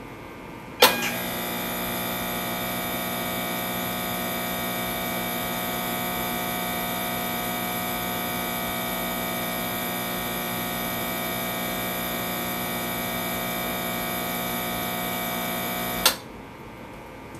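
Intoxilyzer 5000 breath-testing instrument's internal air pump switching on with a click about a second in, running as a steady whirring hum for about fifteen seconds to purge the sample chamber, then cutting off with a click near the end.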